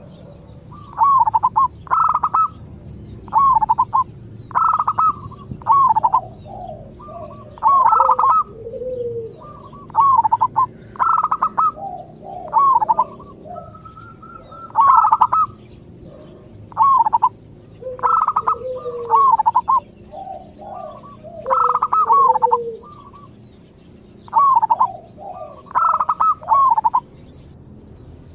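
Zebra dove (perkutut) cooing: short, bending coos around the same pitch repeated in clusters about every second or so, with softer, lower, falling notes between some of the clusters.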